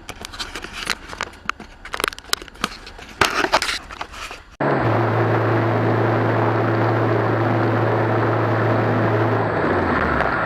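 Faint scattered clicks and rattles. About halfway through, an abrupt switch to loud, steady vehicle running and road noise with a low hum, as picked up by a dash camera inside a moving vehicle.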